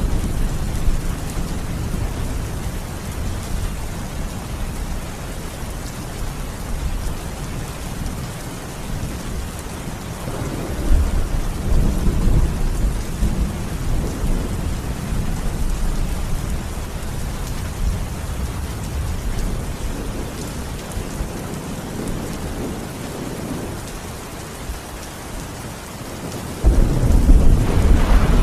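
Steady rain falling, with deep rolling thunder. The thunder swells about ten seconds in and breaks in louder and suddenly near the end.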